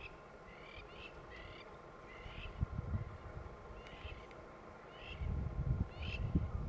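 Wild birds calling: short chirping phrases repeated every half second to a second. A low rumbling noise comes in about five seconds in.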